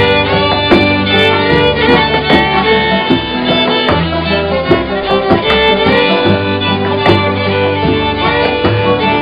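Fiddle playing a fast melody over strummed guitar and a bass line: an instrumental break in a string-band song.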